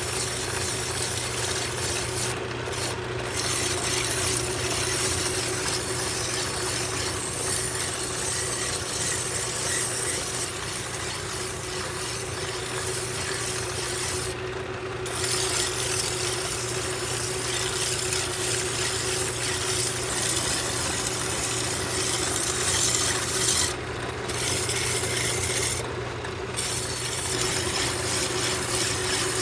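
Hand file rasping against a metal headlight bezel spinning in a running lathe, over the lathe's steady hum. The rasping stops for a moment a few times as the file is lifted, about two and a half seconds in, near the middle and twice near the end.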